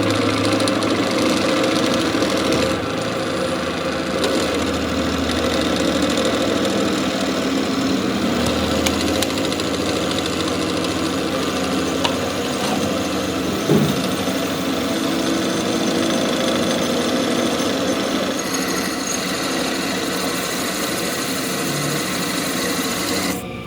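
A workshop machine running steadily, with one short knock about fourteen seconds in.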